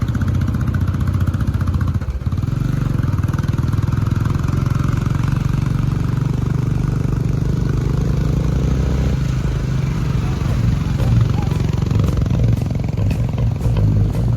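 Motorcycle engine running steadily, its note shifting about nine seconds in.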